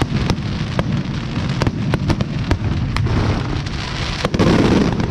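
Fireworks going off: a rapid, irregular string of bangs and crackles over a continuous low rumble, with a louder burst about four and a half seconds in.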